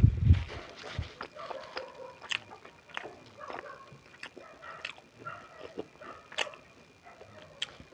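Eating sounds: irregular wet clicks and smacks of chewing, opening with a loud low thump.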